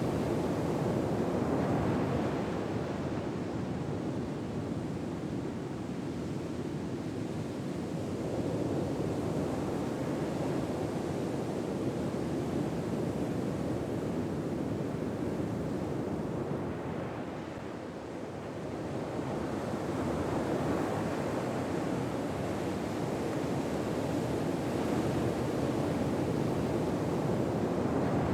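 Ocean waves on a shore, a steady rushing surf that swells and eases slowly, dipping briefly about two-thirds of the way through before building again.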